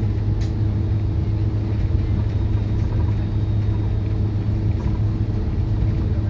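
Steady low rumble of an Airbus A330 cabin on the ground after landing, with a steady hum running through it. A faint click about half a second in.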